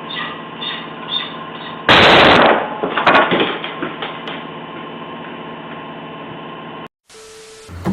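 A sudden loud crash about two seconds in, followed by a second of sharp cracks and rattles, over a steady machine hum.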